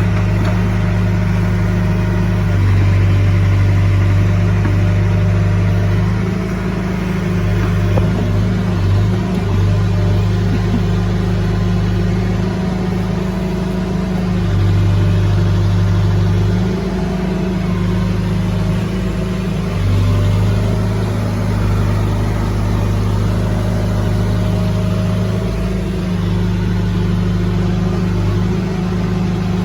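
Heavy machine's diesel engine running continuously, its low hum swelling and easing every few seconds as the load changes.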